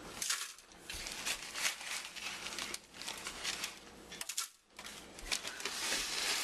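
Crinkling and rustling of a plastic zip-top bag of crushed peppermint candies being handled, with a brief pause about two-thirds of the way through.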